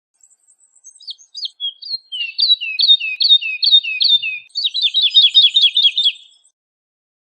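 Woodlark singing one song phrase: a string of high, liquid notes each sliding down in pitch, starting faint, then repeating at a steady pace and breaking into a faster run of falling notes about four and a half seconds in, before stopping.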